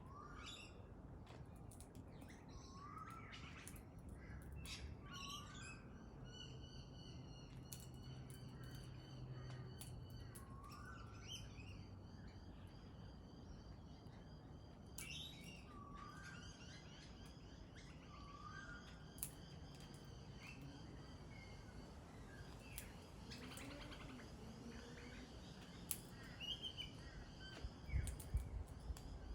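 Pale-headed rosella calling: short rising whistled chirps every second or two, with a high, rapid chattering run of notes through the middle. A few low knocks near the end.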